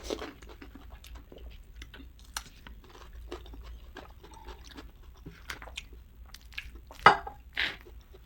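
Close-miked chewing of chatpate, the spicy puffed-rice snack, with many small crisp crunching clicks and a louder burst about seven seconds in.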